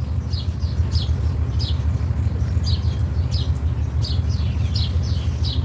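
Small bird chirping over and over, short falling chirps about three a second, over a steady low rumble.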